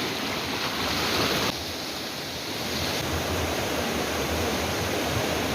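Steady rush of flowing river water, a hiss with no pitch; the higher part eases slightly about one and a half seconds in.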